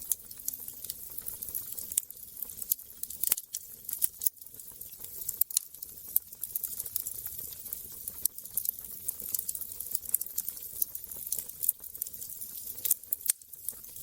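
Wood fire crackling, with irregular small pops over a steady hiss and a few louder snaps.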